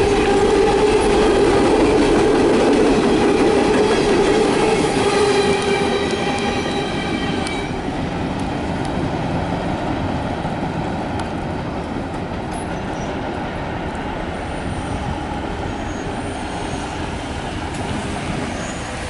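Empty coal train's hopper cars rolling past on the rails, with a faint high wheel squeal over the first several seconds. After about six seconds the rumble fades steadily as the last car moves away.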